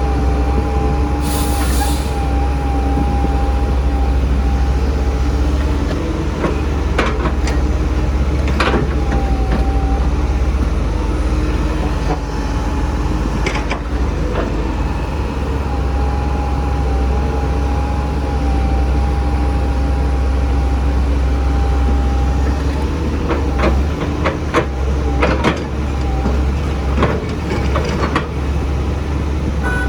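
Heavy diesel excavator and dump-truck engines running steadily under load, with a high hydraulic whine that wavers in pitch. There are scattered metallic clanks, bunched near the end, and a brief air hiss about a second and a half in.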